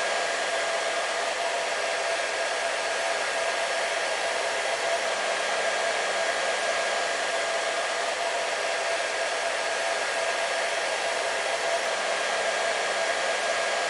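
Hair dryer running steadily: an even rush of blown air with a steady motor whine over it.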